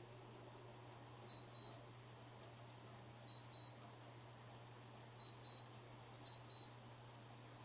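LG window air conditioner's control panel beeping: four high-pitched double beeps about two seconds apart, over a low steady hum.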